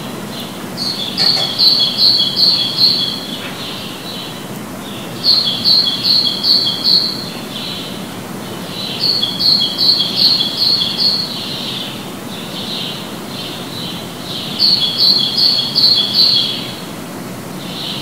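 A songbird singing the same short phrase over and over: a quick run of five or six clear double notes, about every four seconds, with fainter song between the phrases. The song echoes off the walls of a back courtyard, over a steady low city background hum.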